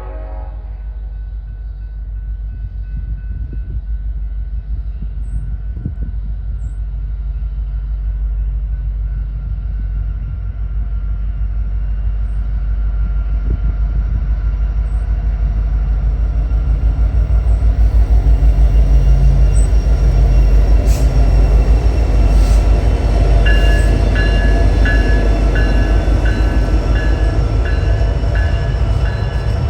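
Diesel locomotives on an intermodal freight train passing close by, a low engine rumble that grows louder over the first twenty seconds or so. Near the end a high ringing repeats at an even beat over the rumble, with a few sharp clicks.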